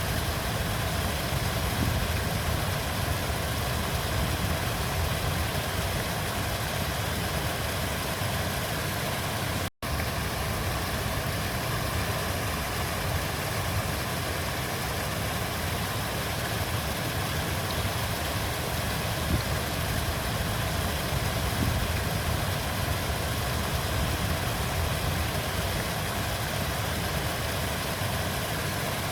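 River water flowing steadily: a continuous rush with a strong low rumble, broken once by a split-second gap of silence about ten seconds in.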